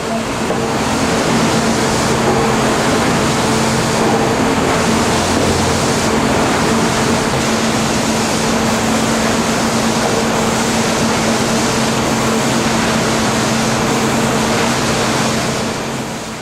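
Sawmill machinery running: a dense, steady mechanical din with a constant low hum underneath, fading in at the start and out near the end.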